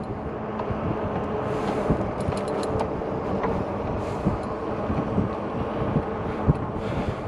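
Riding noise from an electric bike on a trail: wind buffeting the microphone over a steady rolling rush, with a faint steady hum and scattered small rattles and knocks.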